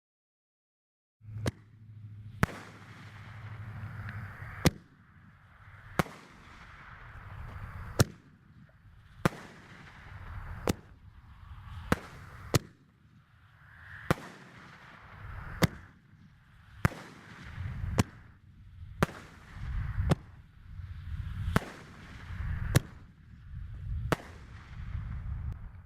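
Consumer fireworks artillery shells fired from a mortar tube: a run of sharp bangs, about twenty in all, starting a second in, with a rushing hiss and low rumble between them as the shells launch and burst.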